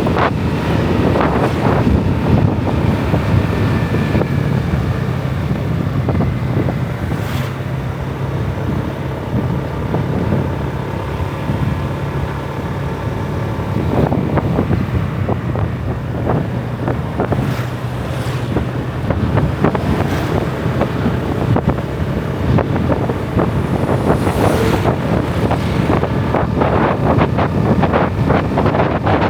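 Motorbike engine running steadily while riding, heavily buffeted by wind on the microphone, with a few brief crackles.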